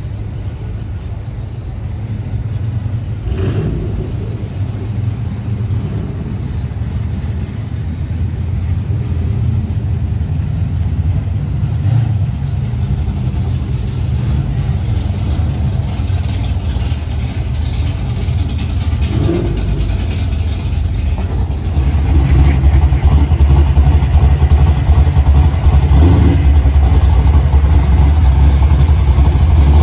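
A motor vehicle running: a steady low rumble that gets louder about two-thirds of the way through.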